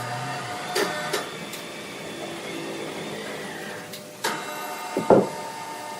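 Sawmill machinery running with a steady hum, broken by sharp knocks: two about a second in, then two more near the end, the last the loudest.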